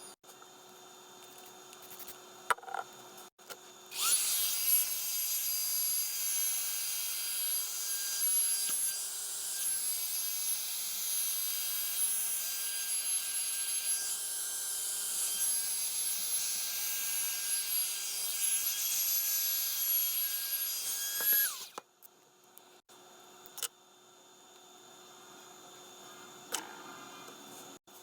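Revlon hair dryer brush switched on about four seconds in: its motor spins up and runs with a steady high whine over the rush of air, then winds down and stops about three quarters of the way through. A few light clicks come before it starts.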